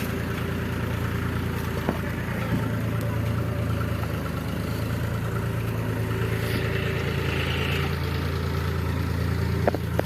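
Heavy diesel engine running steadily, a low drone with no marked revving, with a couple of sharp clicks near the end.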